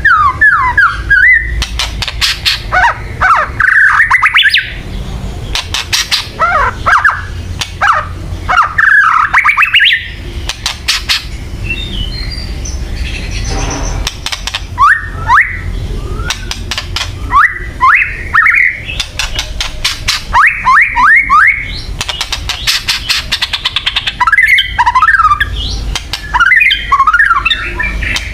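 Songbird giving harsh 'kretekan' calls: bursts of rapid clicking rattles mixed with quick rising whistled notes, repeated every second or two with a short lull near the middle. The kretekan is an agitated, aggressive call type.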